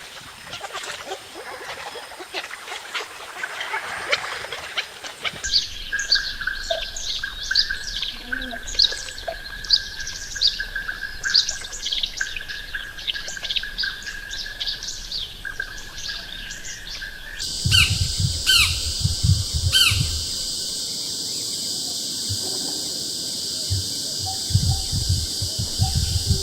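Rainforest birds chirping, with many quick high calls and a held whistle-like note through the middle. Near the end the birds thin out to a few calls over a steady high drone. The ambience changes abruptly twice, like cuts between recordings.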